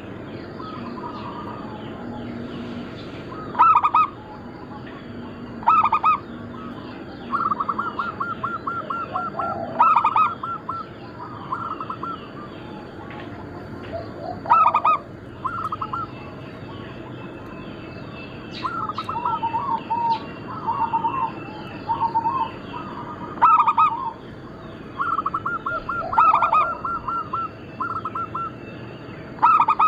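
Zebra doves (perkutut) cooing: loud calls every few seconds, several of them rapid runs of short staccato coos. Smaller birds chirp faintly throughout.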